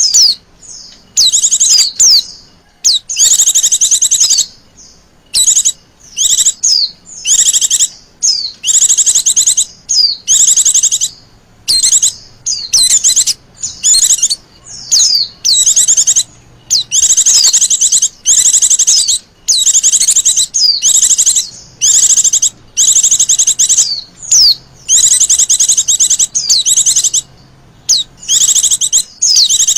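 Female white-eye (Zosterops) calling: high, rapid trills of about a second each alternating with quick slurred chirps, repeated with short gaps. This is the female call that keepers play to provoke males into singing.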